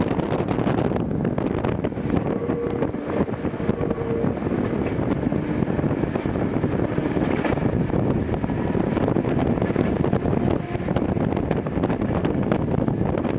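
A Gakunan Railway 7000 series electric railcar running, heard from inside the car: a steady rumble of wheels and motors with rushing wind noise.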